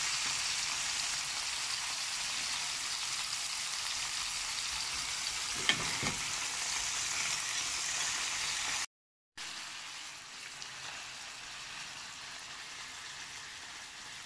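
Talangka (small shore crabs) sizzling steadily in hot oil in a frying pan, with one sharp click about six seconds in. The sizzle drops out briefly near nine seconds and goes on quieter after.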